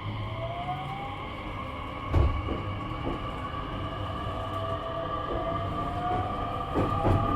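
Nishitetsu 3000 series electric train heard from inside a passenger car while picking up speed. The traction motor whine rises slowly in pitch over steady running noise, with a loud knock about two seconds in and a few wheel clicks over rail joints near the end.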